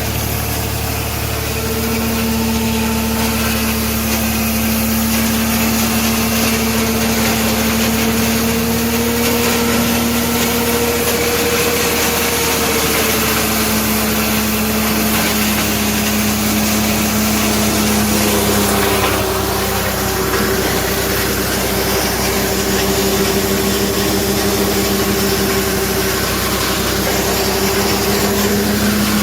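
Tractor-driven wood chipper running: a steady engine and machine hum whose pitch wavers slowly and drops slightly about two-thirds of the way through.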